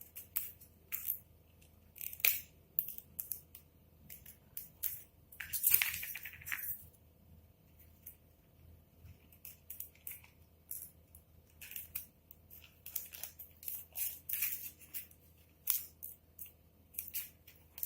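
Polyfoam parts and tape being handled during assembly: irregular short crinkles, rustles and snips, with a longer, louder tearing or crinkling spell about six seconds in.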